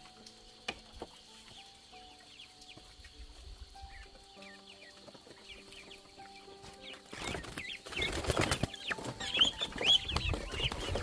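Chickens clucking and chicks peeping, with rustling, getting louder from about seven seconds in; before that, soft background music with scattered faint chirps.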